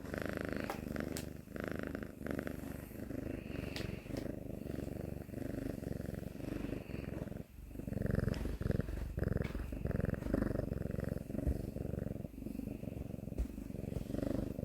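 Kitten purring close by, a low continuous rumble that swells and eases over and over, with a brief break about halfway through.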